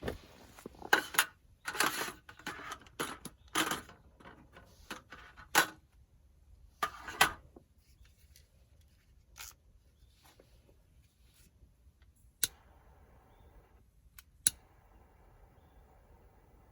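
Camping gear being handled: a busy run of rustling and light clinks and knocks, then quieter, with two sharp clicks near the end.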